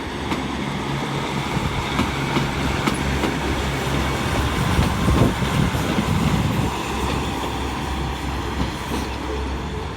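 Diesel train running through the station: a steady engine drone over a rail rumble, with a few wheel clicks over the rail joints.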